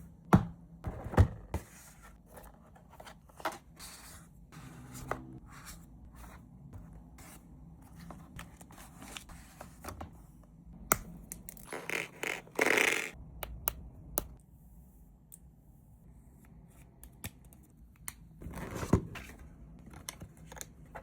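Parts of a V8 engine model kit handled and fitted by hand: scattered clicks and light knocks, with a longer scraping rustle about twelve seconds in.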